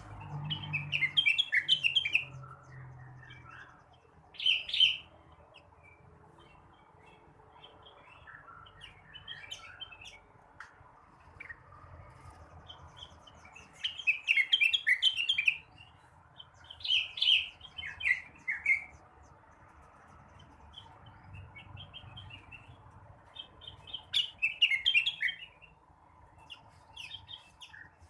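Cucak rengganis (cucak wilis), a leafbird, singing in bursts of rapid chirping phrases several seconds apart, with softer twittering in between.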